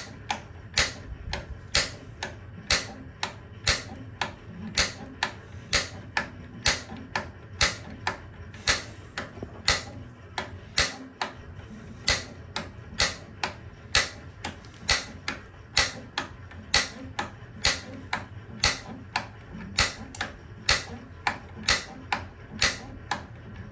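Gas water heater's piezo pilot igniter being pressed over and over, a sharp click about twice a second, while the gas control is held in the pilot position. The pilot has not caught yet, as gas is still working its way through a line that had been empty.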